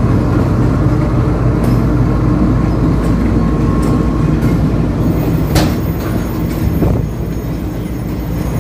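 Pakistan Railways diesel locomotive running with a steady low engine hum as its train passes on the track, with a sharp knock about five and a half seconds in and a fainter one near seven seconds.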